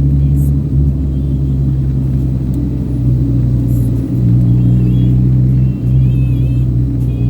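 Music from a car stereo playing inside a moving car, heavy in bass, over the low rumble of the car on the road.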